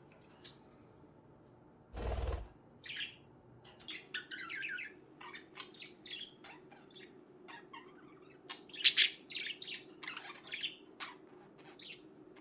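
Pet budgerigars chirping in many short, quick calls, busiest and loudest past the middle. A brief burst of noise comes about two seconds in, before the chirping starts.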